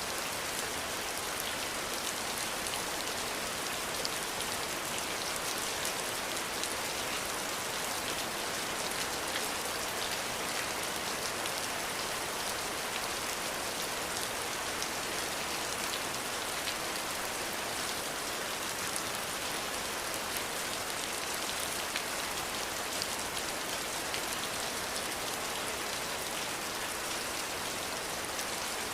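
Steady rain falling, an even hiss with many small drop ticks throughout and no thunder.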